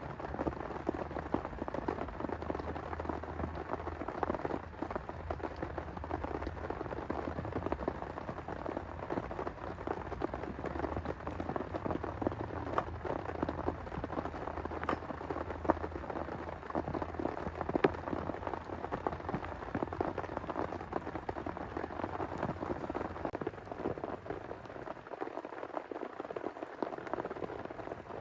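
Heavy rain pouring steadily, a dense pattering of countless drop hits, with a low rumble underneath that dies away near the end.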